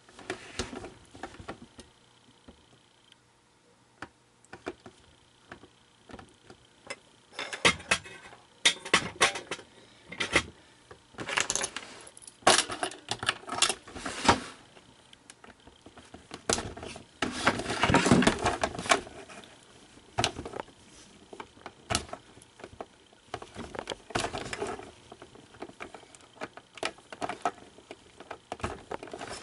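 Small hand tools and hard plastic parts being handled: scattered clicks, taps and light clattering, busier from about a quarter of the way in, with a longer scraping rustle just past the middle.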